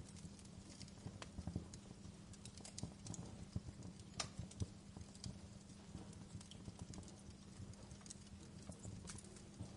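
Wood fire crackling: a soft steady hiss with irregular sharp pops and snaps, a few louder pops standing out.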